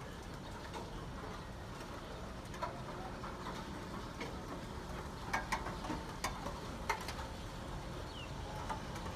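Steady hiss of rain, with a few scattered sharp ticks.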